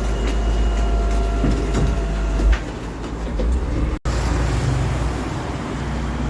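Garbage truck running with a heavy low rumble and faint steady whines. A sharp clunk comes about two and a half seconds in, after which the rumble eases.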